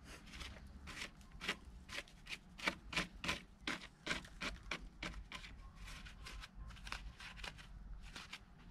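Hand tools and metal engine parts being handled during an engine teardown: a run of sharp, irregular clicks and clinks, several a second.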